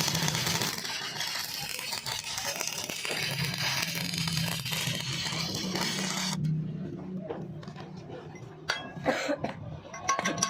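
Stick-welding arc crackling steadily as the electrode burns, cutting off suddenly about six seconds in when the arc is broken. A few sharp knocks follow, and music starts near the end.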